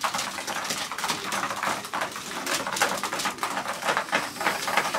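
Racing pigeons pecking grain from their feed, a dense run of irregular small clicks and taps with some scuffling.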